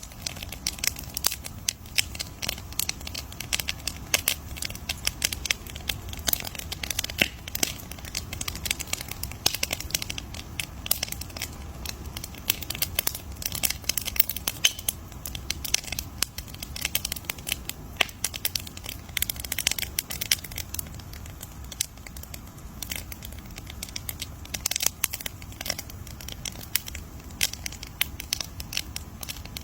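Wood campfire crackling and popping steadily: a dense, irregular run of sharp snaps over a low, even rumble.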